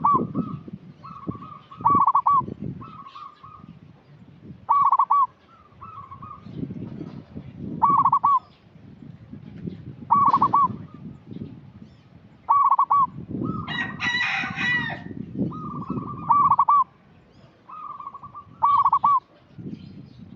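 Zebra dove (perkutut) calling: soft rolling notes leading into a loud cooing phrase, repeated roughly every two to three seconds. Around the middle, another bird gives a longer, harsher call.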